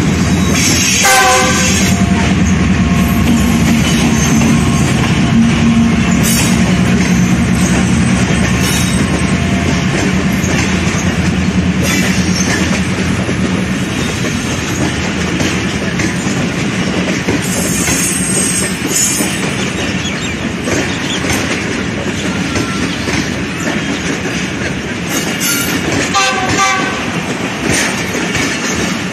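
Passenger train coaches rolling past close by, a steady rumble with the clickety-clack of wheels over rail joints. A short diesel horn blast sounds about a second in, and another brief one near the end.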